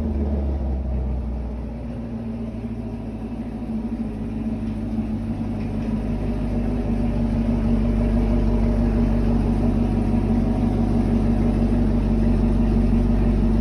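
Chevrolet Camaro 2SS 1LE's 6.2-litre LT1 V8 idling steadily after a cold start, growing somewhat louder over the first several seconds and then holding even.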